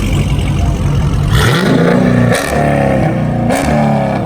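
A car engine rumbling low, then revving hard about a second and a half in. The sound breaks sharply twice as the engine climbs and holds high revs.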